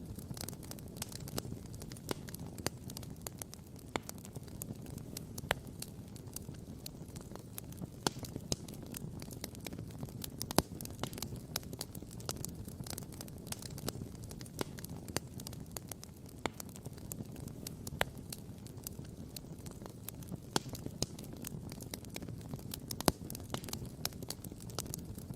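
Wood campfire crackling and popping: a constant scatter of small sharp crackles, with a couple of louder pops, over a steady low rumble.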